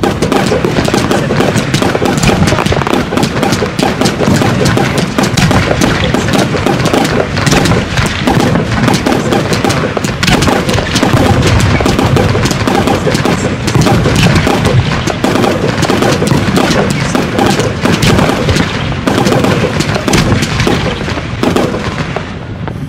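Fireworks cakes, multi-shot low-level display devices, firing heard close up: a dense, continuous barrage of launch thumps and bursting shots, many each second, easing slightly near the end.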